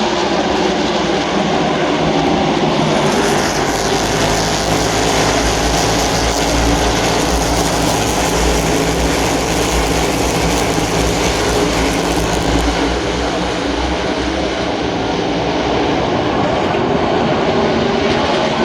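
Field of NASCAR Cup Series race cars running laps, a continuous loud drone of V8 engines. The sound grows brighter and harsher from about three seconds in until about thirteen seconds, as cars come close.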